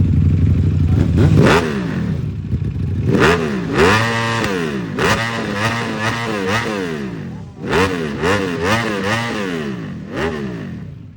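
Ducati Panigale V4S's 1103 cc V4 engine idling briefly, then revved in a quick series of throttle blips, each pitch rising and falling back, several to a second in places.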